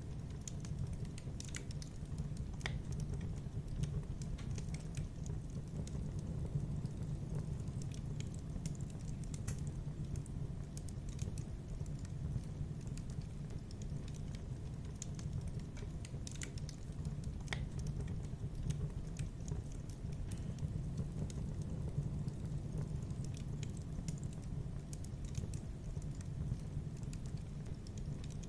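Wood fire crackling in a fireplace: scattered sharp pops and snaps at irregular moments over a steady low rumble of the flames.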